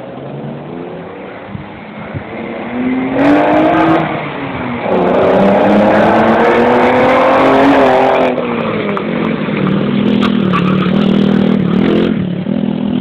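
Cobra replica kit car's Cosworth V6 engine being driven hard, revving up with its pitch climbing, then dropping sharply at changes about 4, 8 and 12 seconds in. It gets loud from about three seconds in.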